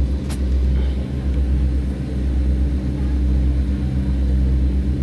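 Tugboat's diesel engine running steadily: a deep, even drone with a hum above it. A single sharp click sounds just after the start.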